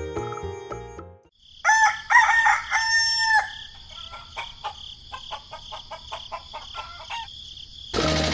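A rooster crows once, a loud drawn-out call, followed by several seconds of short chicken clucks. Background music fades out at the start and comes back near the end.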